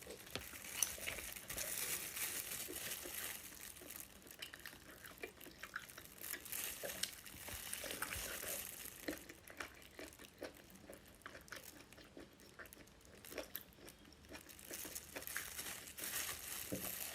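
Faint eating sounds: wet chewing and small mouth clicks and crackles from someone eating spicy seafood, quietly and irregularly.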